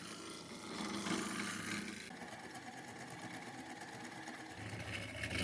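Wood lathe running steadily with a hiss over its motor hum, as a wooden bowl is turned on it.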